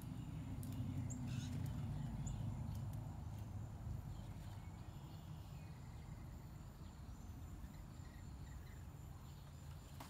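A few faint, short chirps of small birds at the feeders in the first two or three seconds, over a steady low rumble.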